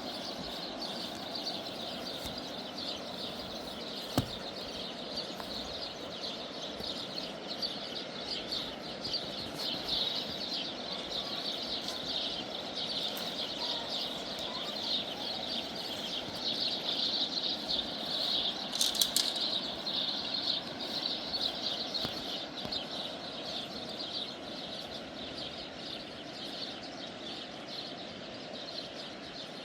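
A dense, steady chorus of rapid high-pitched chirping, growing louder toward the middle, with a single sharp click about four seconds in.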